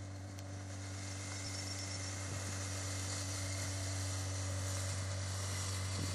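Kawasaki ZX636 inline-four engine running at a steady low engine speed as the bike rolls along, slowly growing louder as it comes closer.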